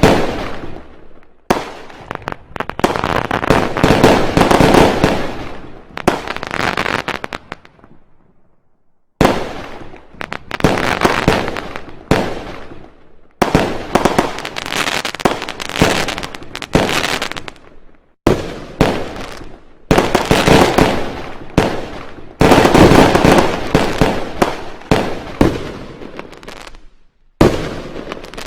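Fireworks going off in rapid volleys of bangs and crackles, each burst of reports dying away over a second or two, with brief gaps between volleys.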